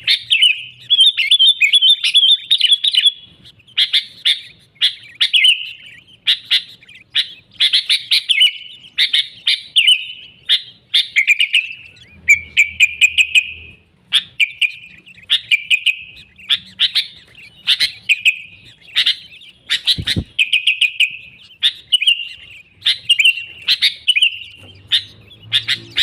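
Sooty-headed bulbul (kutilang) singing energetically, short chirpy phrases repeated about once a second without a break. A single low thump comes about 20 seconds in.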